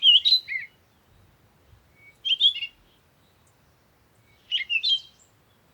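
Morning birdsong: short warbling song phrases, three of them about two seconds apart, with quiet in between.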